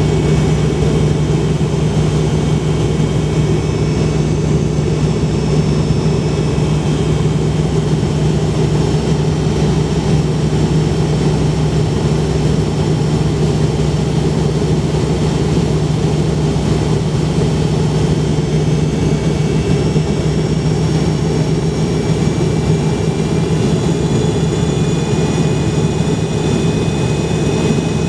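Steady drone of an MD-82's rear-mounted Pratt & Whitney JT8D jet engines heard inside the passenger cabin, with a low hum under a faint high whine that shifts slightly in pitch near the end.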